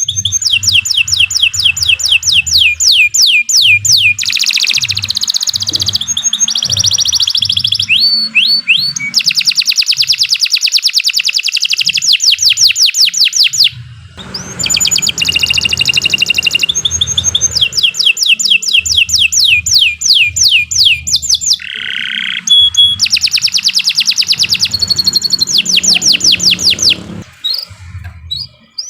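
Domestic canary singing a long, loud, nearly unbroken song of rapid trills, each a fast string of repeated high notes, with a short pause about halfway through. A low, intermittent rumble sits underneath.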